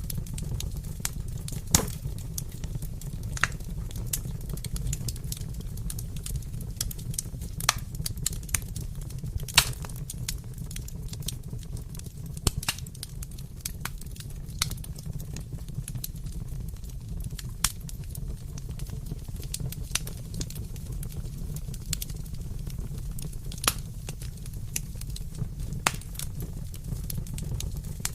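Wood fire crackling in a fireplace: a steady low rumble of flame with irregular small pops and snaps, a few sharper, louder pops scattered through.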